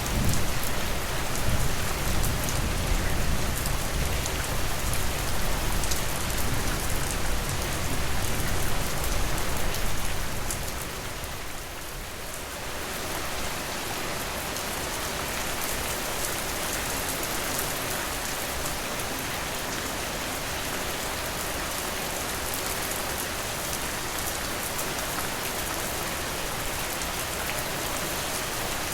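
Steady rain falling, an even dense patter with fine raindrop ticks. For roughly the first ten seconds a low rumble sits under it and the whole is louder, then it eases to the even rain alone.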